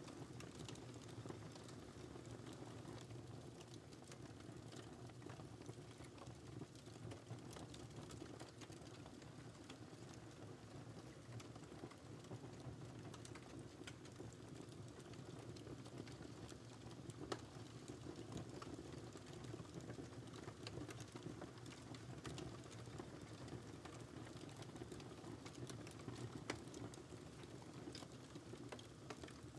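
Wood fire burning in a fireplace: a low, steady rumble of flames with frequent small crackles and pops, a couple of sharper pops standing out.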